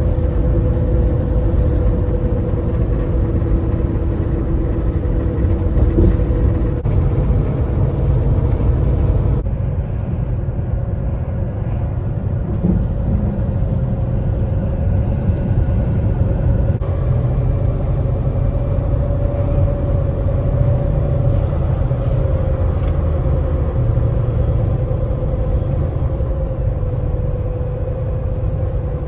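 Semi-truck cab at road speed: a steady engine drone and deep road rumble, with a constant humming tone over it.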